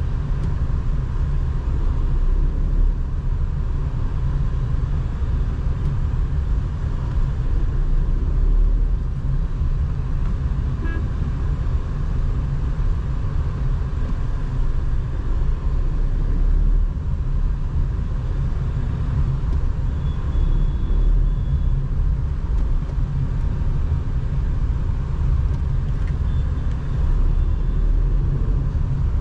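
Tata Nexon driving in traffic: a steady low engine and road rumble. Faint horn toots are heard briefly about twenty seconds in and again near the end.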